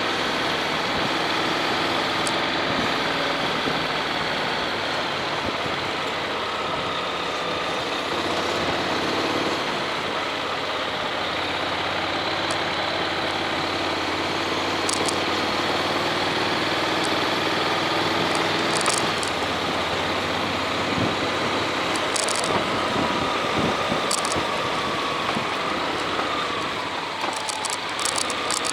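Honda X-ADV's 745 cc parallel-twin engine running as the scooter-style motorcycle is ridden, under steady wind and road noise; the engine pitch wavers near the end.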